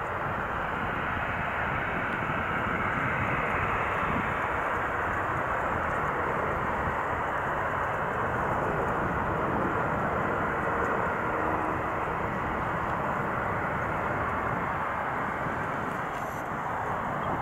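Jet noise from a Boeing 787-9's two General Electric GEnx-1B turbofans as the airliner lands: a steady, even rush that swells slightly a few seconds in.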